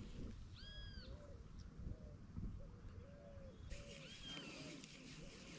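Faint bird calls: short, arched notes repeated every half second or so, with a few higher, clearer calls mixed in, over the quiet of open water.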